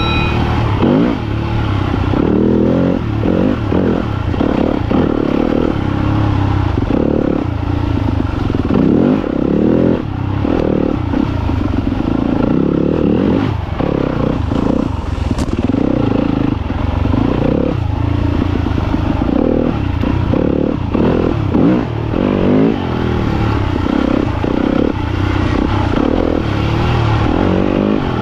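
Yamaha YZ250FX dirt bike's single-cylinder four-stroke engine, heard close from the rider's camera, revving up and falling back again and again as the throttle is worked through the trail.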